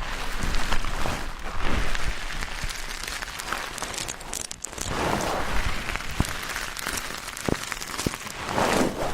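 Ear-cleaning ASMR sounds: an ear-cleaning tool scratching and rubbing close against the microphone, a dense crackle of fine clicks with louder rubbing swells about halfway through and near the end.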